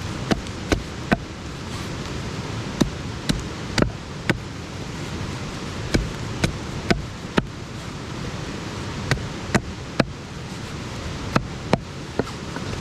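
Campfire crackling: irregular sharp pops, about twenty in all, over a steady hiss.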